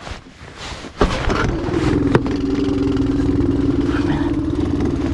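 Boat's outboard motor starting about a second in, revving briefly and then settling into a steady idle.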